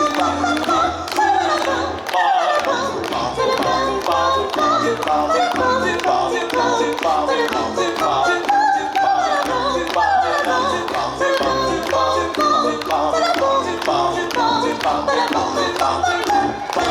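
Choir of voices singing a song in harmony over a backing track with a steady, even beat.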